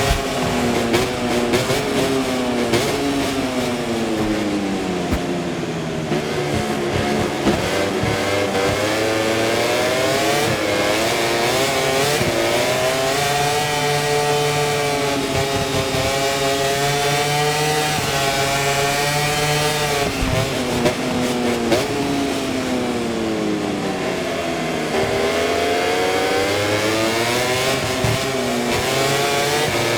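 Aprilia RS-GP MotoGP bike's V4 engine recorded by the onboard camera, rising and falling in pitch as the rider goes through the gears. The pitch drops for the first several seconds under braking, climbs and holds high, dips again after about twenty seconds, then rises once more near the end.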